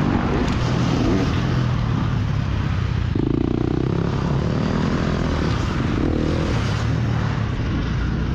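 Sur-ron Ultra Bee electric dirt bike being ridden on a dirt motocross track: a steady rush of wind and rumble, with the electric motor's whine coming up briefly about three seconds in and again about six seconds in.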